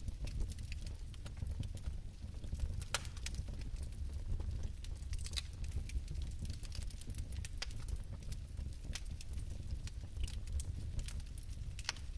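Fire in a fireplace crackling: irregular sharp pops and snaps over a low, steady rumble of the flames.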